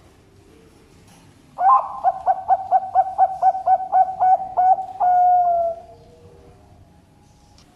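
Zebra dove (Bangkok-type perkutut) singing: a fast run of about fifteen short cooing notes, roughly four or five a second, ending in one long, slightly falling note.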